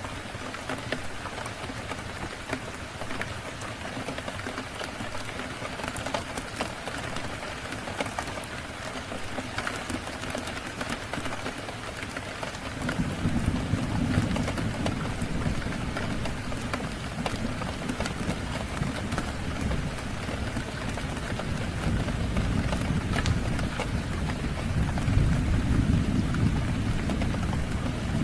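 Steady rain falling. A deep rumble of thunder comes in about halfway through and swells again near the end.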